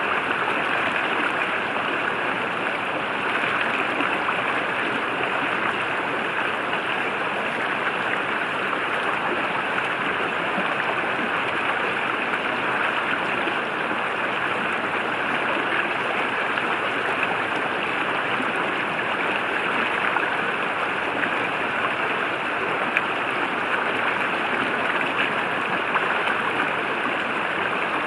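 River water flowing and rushing steadily over rocks, an even, unbroken sound.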